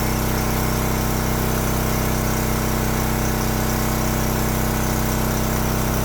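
Agricultural spraying drone's propellers running, a steady hum of several even tones.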